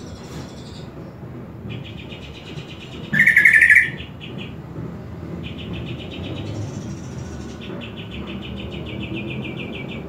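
Cucak ijo (green leafbird) song: high, rapidly stuttering trill phrases repeated several times, with one louder, lower outburst about three seconds in. A low rumble runs underneath.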